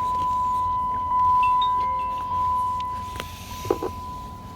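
Steady single-pitched electronic warning tone from the car, which has the ignition on and the engine off. The tone grows quieter after about three seconds, and a few short clicks come near the end.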